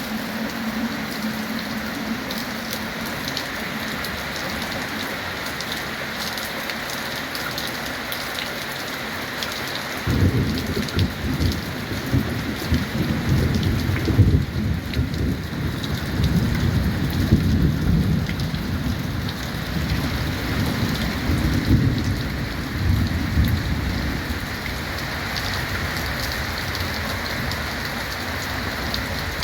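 Steady heavy rain drumming on a tin roof. About ten seconds in, a long low rumble of thunder sets in suddenly and rolls on, swelling and fading, for roughly fourteen seconds before dying away under the rain.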